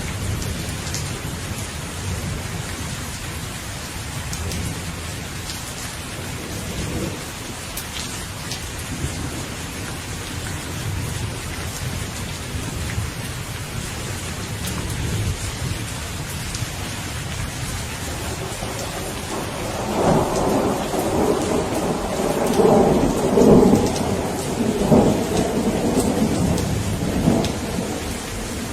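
Steady rain falling, with a low rumble of thunder underneath. A louder roll of thunder builds about two-thirds of the way in and peaks twice before fading near the end.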